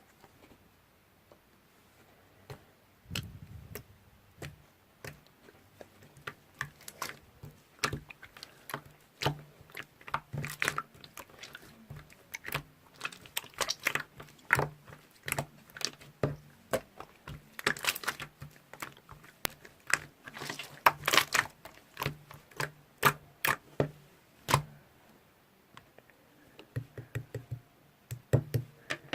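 Someone eating: chewing and biting, with many sharp clicks and knocks that start a few seconds in and come thickest in the middle.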